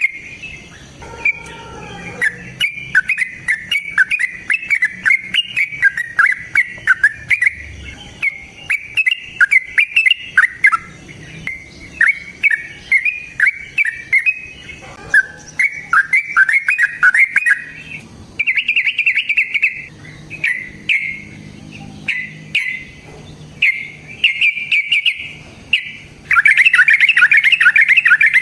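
Caged songbird calling in quick high chirps and short chattering phrases, ending in a loud, unbroken rapid chatter of about two seconds.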